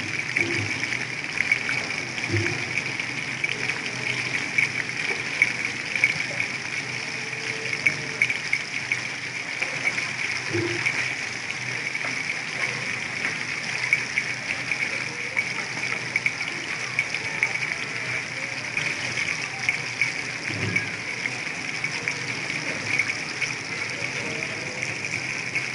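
Chicken lollipops deep-frying in hot oil, a steady dense sizzle with constant fine crackling.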